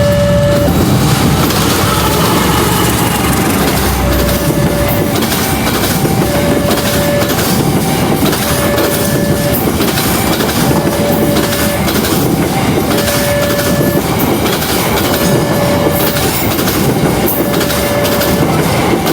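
Passenger train running past, its wheels clattering over the rail joints in a steady clickety-clack. Throughout, a two-tone electronic warning signal repeats about every two seconds.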